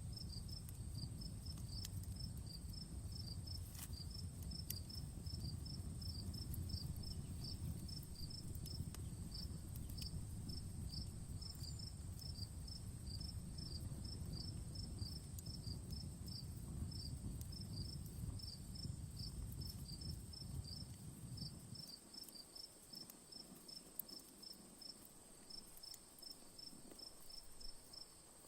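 Crickets chirping in an even rhythm, about two to three chirps a second, over a steady high-pitched whine. Faint occasional crackles from a campfire and a low rumble that drops away about three quarters of the way through.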